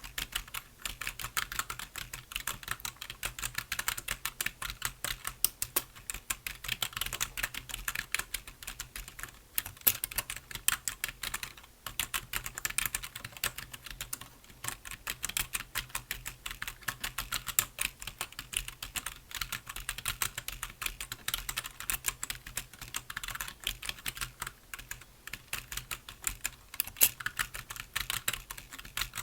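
Steady, fast typing on a computer keyboard: a continuous patter of key clicks with a brief pause about twelve seconds in.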